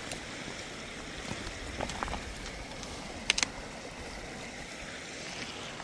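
Stream water rushing steadily, with two sharp clicks a little over three seconds in.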